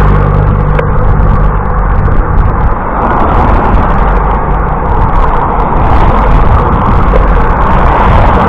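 Loud, steady rushing noise of wind and road on a camera microphone during a bicycle ride, with a low rumble underneath.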